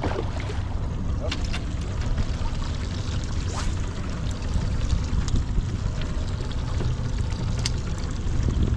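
Water sloshing and trickling against a small boat's hull, over a steady low rumble of wind on the microphone, with a few light clicks.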